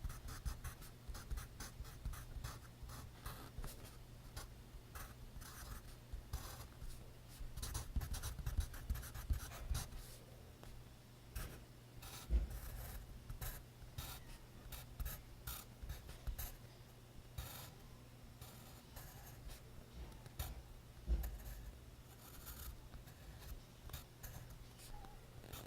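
Pencil writing on notebook paper: quick, irregular scratching strokes with a few soft knocks of the pencil or hand on the page, over a faint low hum.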